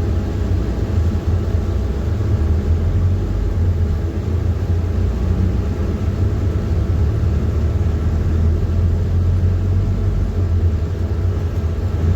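PAZ-4234-05 bus running, heard from inside the bus: a steady low engine drone with no change.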